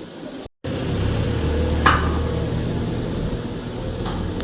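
Steady low mechanical drone of machinery running, with a short knock about two seconds in and another near the end.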